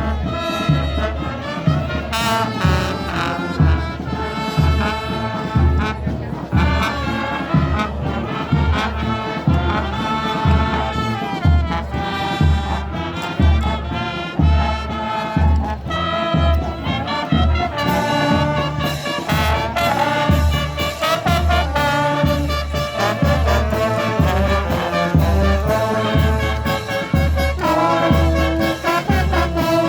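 Brass band playing a march-like tune, trombones and trumpets over a steady low beat.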